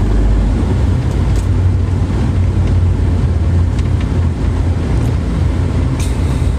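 Steady low rumble with wind noise buffeting the microphone, like the running noise of a moving vehicle.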